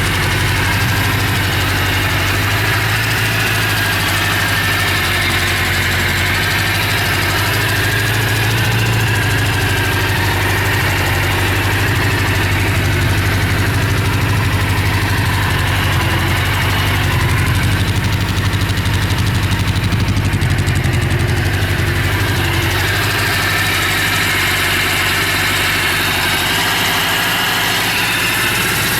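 Suzuki GS750's air-cooled inline-four engine idling steadily.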